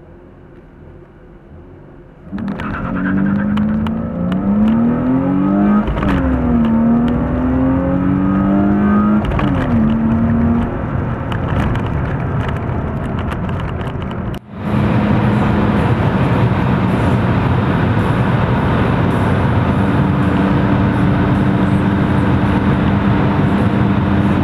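BMW E36 engine pulling hard from about two seconds in, its revs climbing and dropping back at each of several upshifts. After a sudden break, the engine and wind run loud and steady at high speed.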